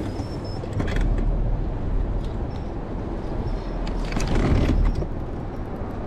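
Wind buffeting the microphone in a steady low rumble, with a few small clicks and rattles from handling on the boat.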